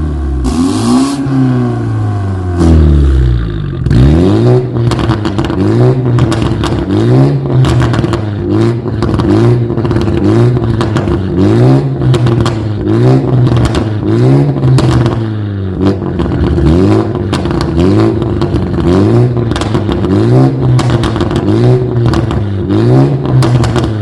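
BMW G20 330i's turbocharged four-cylinder engine being revved in quick repeated blips through an aftermarket stainless valvetronic exhaust, each blip rising and falling in pitch about once every second and a half, with crackles from the exhaust between revs. It starts with one longer rev that falls away before the rapid blipping begins, about four seconds in.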